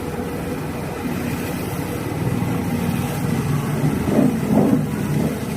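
Volvo excavator's diesel engine running steadily, with a few louder surges near the end.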